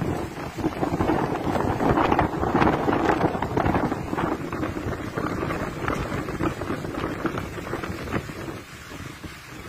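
Storm wind buffeting the microphone in uneven gusts, easing near the end.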